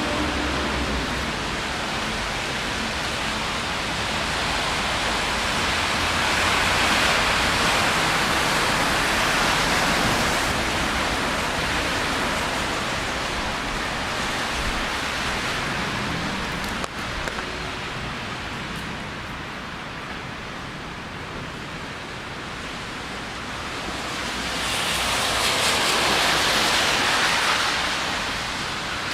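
Steady hiss of rain on a wet city street, swelling louder twice for several seconds, with a single sharp click a little past the middle.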